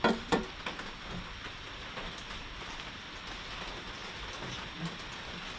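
Steady heavy rain falling, with two sharp metal-on-glass clinks just after the start as a stainless steel bowl is set down on a glass tabletop.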